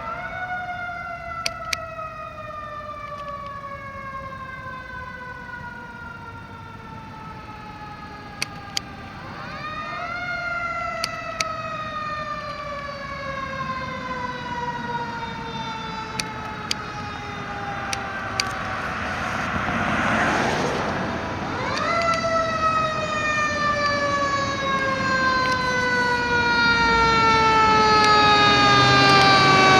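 Fire truck siren rising quickly, then falling slowly in a long wail, three times over, getting louder as the truck approaches. A few sharp clicks and a short burst of hiss about twenty seconds in.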